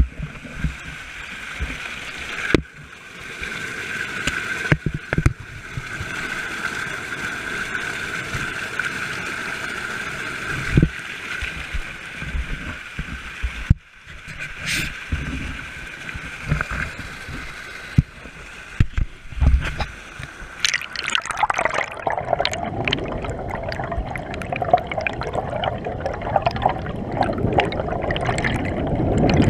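Rushing water of a creek waterfall, with scattered sharp knocks throughout. From about two-thirds of the way in the water sound grows louder and deeper.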